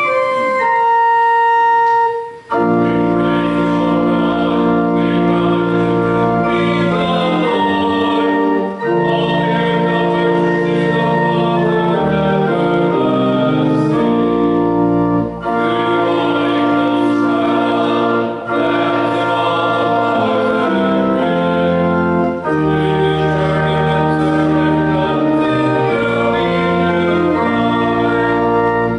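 Church organ playing a hymn in long, held chords. A few single notes sound first, and the full chords come in about two and a half seconds in.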